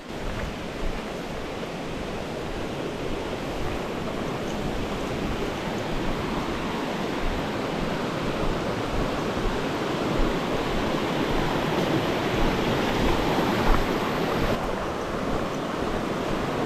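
Water of a mountain stream rushing over rocks: a steady rush that grows gradually louder.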